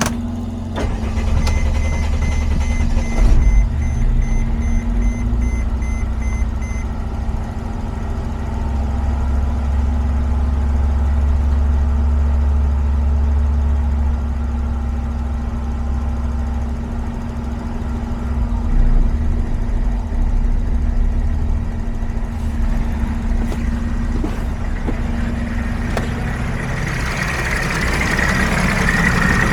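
Mercedes-Benz Sprinter's 3.0 L V6 diesel (OM642) running roughly in a hard-start condition, kept going with starting spray. A repeated electronic beep sounds over it for the first few seconds, and a hissing noise rises near the end.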